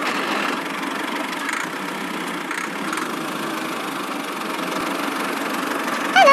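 Engine running steadily with no rise or fall in pitch.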